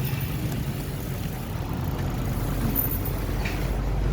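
Steady low rumble of road traffic and riding noise heard from a bicycle moving along a highway.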